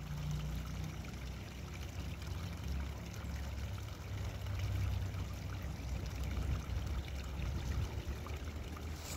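Creek water trickling and running steadily, with a low, uneven rumble underneath.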